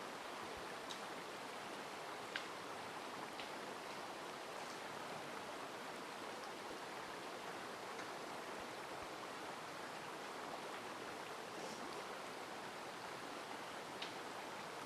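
Mountain stream running steadily, an even rushing of water, with a few faint short clicks over it, one about two seconds in and one near the end.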